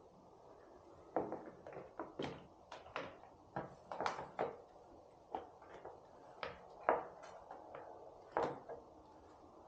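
Irregular knocks and clicks of parts and hand tools being handled: about fifteen short taps spread over several seconds.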